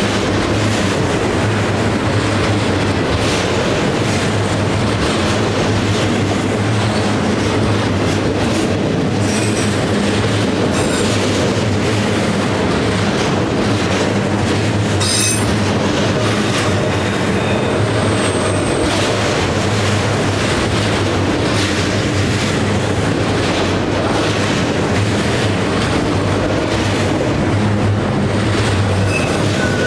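Freight train of autorack cars rolling past close by: a steady rumble of steel wheels on rail, with a few brief high wheel squeals, one about halfway through.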